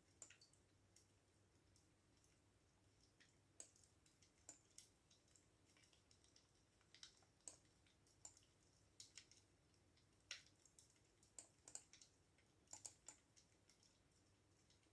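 Faint, unhurried typing on a computer keyboard: single keystrokes and short clusters of clicks with pauses between them, thicker for a few seconds near the end.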